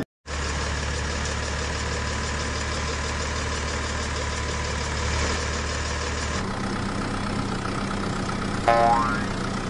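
A vehicle engine running steadily at idle, its tone changing about six seconds in, with a short pitched sound near the end.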